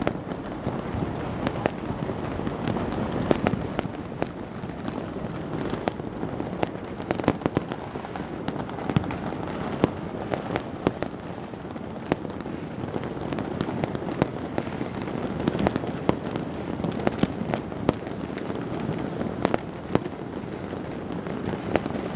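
Fireworks going off in quick, irregular succession: many sharp bangs and cracks over a continuous low rumble of further bursts.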